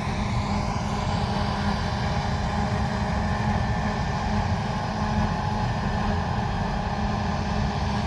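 Large diesel harvest machinery running steadily at working speed: a constant engine drone with a steady hum, over rumbling and rushing noise.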